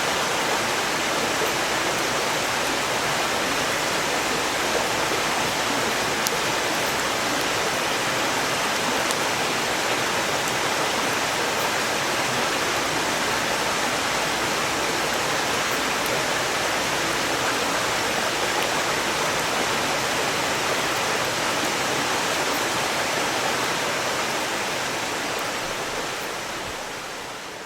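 Mountain stream rushing steadily beside the campsite, with a few faint crackles from burning firewood; it fades out near the end.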